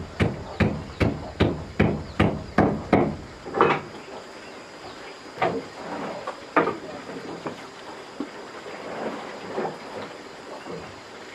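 A hammer striking wood in a quick, steady run of blows, about two or three a second, for the first few seconds. After that come a few scattered, lighter knocks.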